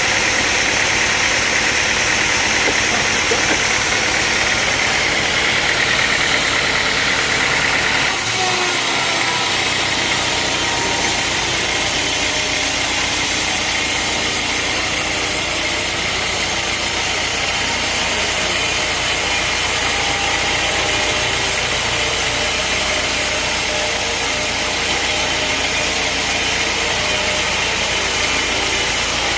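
Sawmill's engine running steadily and loudly, with an abrupt shift in its tone about eight seconds in.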